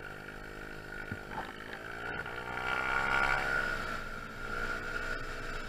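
Honda Zoomer's 50cc single-cylinder four-stroke scooter engine running on the road, its pitch rising over the first two to three seconds as it picks up speed, then holding steady.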